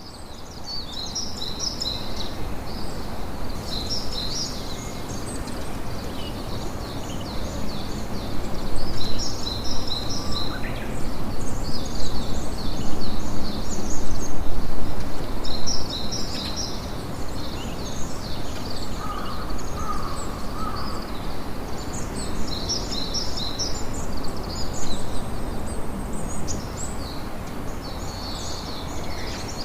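Campfire crackling and hissing, with birds chirping in quick repeated bursts over it. The crackle grows louder and more spiky for a few seconds in the middle.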